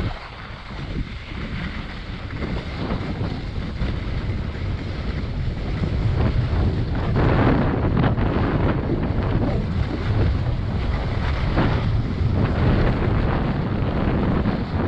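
Wind buffeting the microphone of a moving skier, a steady low rumble that swells into a louder hissing rush about halfway through and again near the end.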